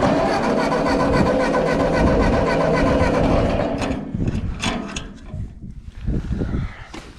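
1946 Ford 2N tractor's four-cylinder flathead engine being cranked over by its starter for about four seconds, turning over evenly without catching, then the starter stops. The engine has sat for a long while and won't fire without starting fluid. A few light knocks follow.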